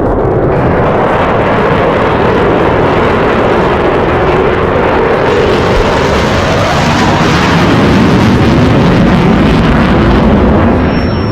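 Eurofighter Typhoon jet fighter's twin turbofan engines, loud and continuous as the jet flies by. The noise grows harsher and louder in the treble from about halfway through.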